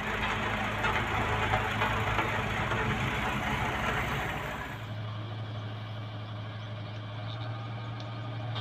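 Diesel engine of road-construction machinery running with a steady low drone; a louder, rougher noise over it drops away about five seconds in, leaving the engine running more quietly.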